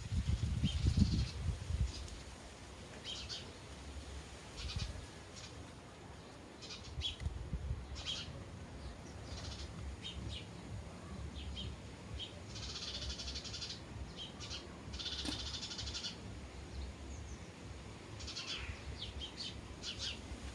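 Sparrows chirping: scattered short chirps, with a denser run of chirping about two-thirds of the way through, over a low rumble.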